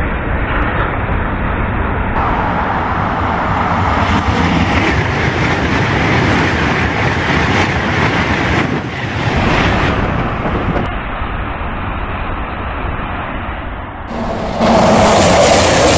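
High-speed train passing at speed: a steady, loud rush of wheels on rail and air, with no clear tones. It jumps suddenly louder near the end.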